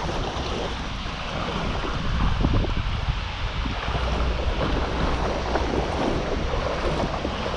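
Shallow river water rushing and splashing around the legs of a person wading through it, with wind buffeting the microphone in a low rumble.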